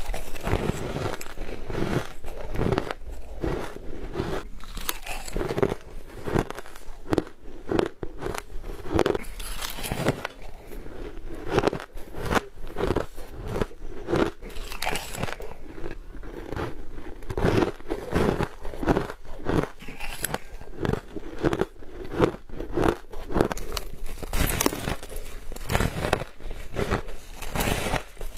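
Ice being bitten and crunched close to the microphone: a continuous run of crisp, crackly crunches, one bite after another.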